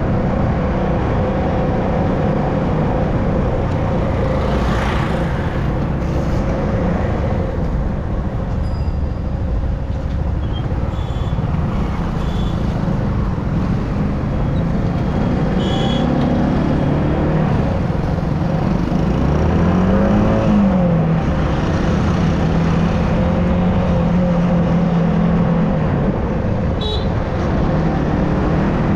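Motorcycle riding along: a Yamaha R15M's single-cylinder engine running under heavy wind rumble on the microphone. Its pitch rises and falls a few times past the middle as the throttle and gears change, and a few short high beeps, like traffic horns, come through.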